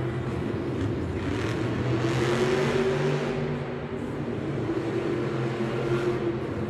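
An off-road truck's engine running steadily, its pitch rising a little around two seconds in, with a band of hiss over the middle stretch.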